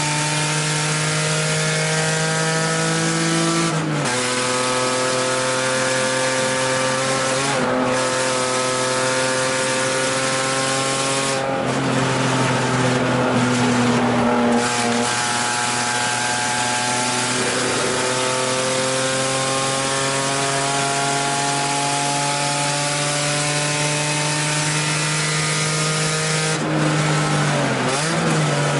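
BMW E30 325i race car's inline-six heard from inside the cabin, pulling hard through the gears. Its pitch climbs steadily and drops suddenly at upshifts about 4 and 8 seconds in. It falls away between about 12 and 15 seconds, then climbs again on a long pull, with another change near the end.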